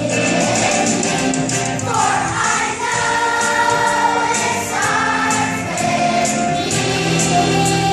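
Music with a choir singing long held notes that change pitch every second or so.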